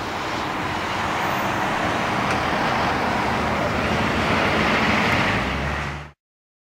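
Boeing 747-400's Rolls-Royce RB211 jet engines roaring steadily, growing a little louder, then cut off suddenly about six seconds in.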